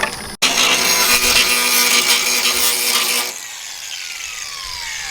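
Handheld power grinder running under load, then released about three seconds in and winding down, its pitch falling steadily.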